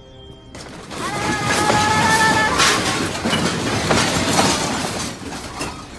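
Background music cuts off about half a second in, giving way to loud clattering and crashing of objects shaken by an earthquake. A high held cry sounds through it from about a second in for a second and a half.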